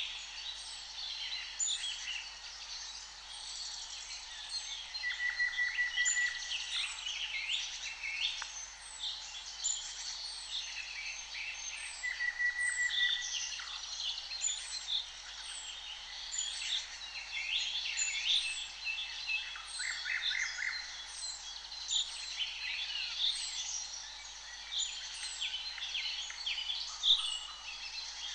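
Several songbirds singing at once, a busy mix of chirps and trills, with a thin high note repeating about once a second.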